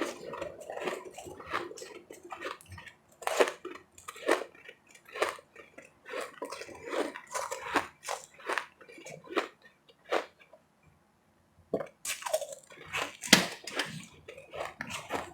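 Close-miked chewing of powdery refrozen ice chips: irregular crisp crunches, several a second, with a short pause a little after ten seconds in before the crunching resumes.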